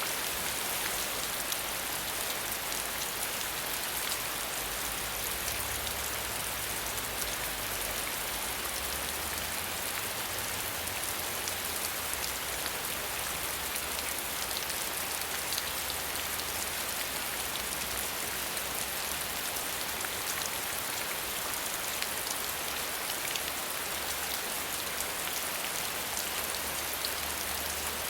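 Steady rain falling: an even hiss of rain with many small drop ticks, and a faint low rumble underneath.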